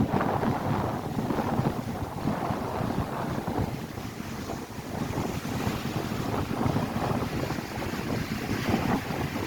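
Gusty wind buffeting the microphone over the steady rush of lake waves breaking on the shore.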